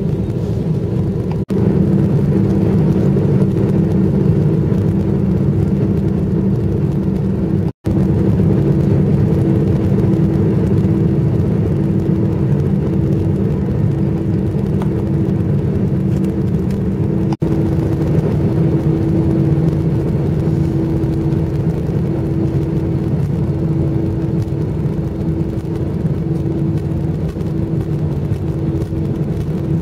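Airliner cabin noise while taxiing after landing: a steady engine hum with a constant mid-pitched tone over low rumble, broken by three momentary cut-outs.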